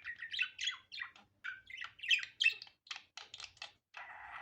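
Budgerigar warbling and chattering: a rapid run of short chirps and squeaky notes, ending in a harsher, scratchy chatter near the end.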